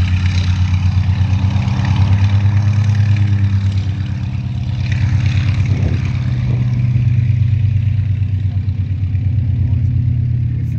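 Antonov An-2's nine-cylinder radial engine running steadily with a fast pulsing beat, easing slightly about four seconds in, then picking up again.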